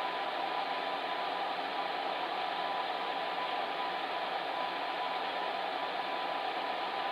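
Electric fan heater running: a steady, unchanging rush of air with a faint hum.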